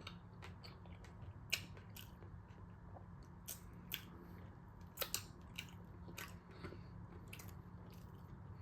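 A person chewing a mouthful of chicken sandwich close to the microphone: faint wet mouth sounds with sharp lip smacks and clicks every second or so, over a low steady hum.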